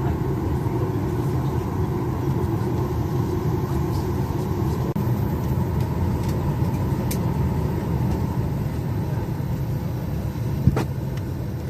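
Steady cabin noise inside a Boeing 737-800, a constant rumble and rush from the aircraft's air and machinery, with one sharp click about ten and a half seconds in.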